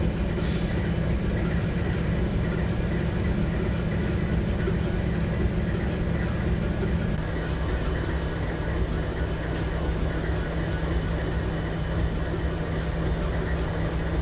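Diesel engine of a BNSF freight train running as a steady low drone, its pitch dropping slightly about seven seconds in.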